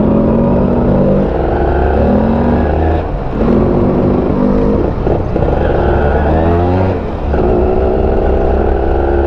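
Kawasaki Ninja 150 RR's two-stroke single-cylinder engine running, its pitch rising and falling with the throttle several times.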